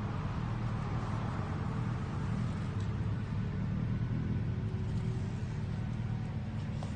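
2019 Kawasaki Ninja 1000's inline-four engine idling steadily through an aftermarket Maverick full exhaust system.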